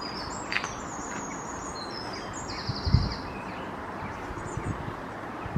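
Small birds chirping and twittering, with a quick high trill near the middle, over a steady outdoor hiss. A single dull low thump about three seconds in is the loudest sound.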